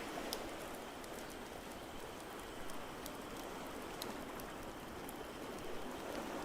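Fireplace crackling, with scattered sharp pops and snaps, over a steady rushing wash of water noise.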